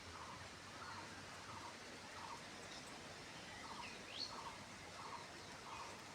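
Faint outdoor ambience with a soft animal call repeating about one and a half times a second, and a single short rising chirp about four seconds in.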